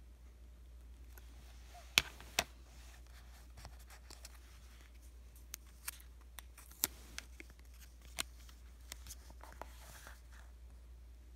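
Paper stickers being handled, peeled and pressed onto diary paper: scattered small clicks and crinkles, with two sharper clicks about two seconds in.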